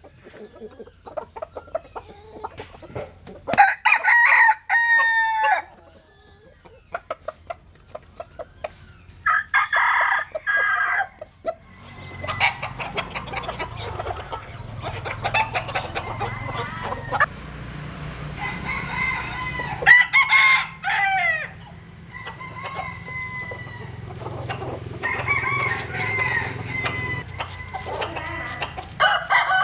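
Bantam roosters crowing again and again, a few seconds apart, with short clucks between. From about twelve seconds in, a steady low hum runs under them.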